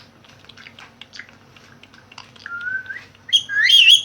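Pet parrot vocalising: soft clicks and small chirps, then a short steady whistle, then loud squawking calls that rise and fall in pitch near the end.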